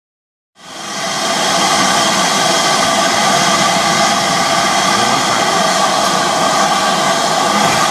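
Loud, steady rushing noise from a train, with several steady tones running through it, fading in just after a moment of silence.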